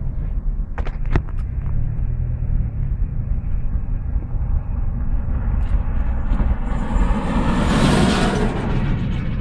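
Steady low rumble of a vehicle on the road, with a rushing hiss that swells from about six seconds in and peaks near eight seconds.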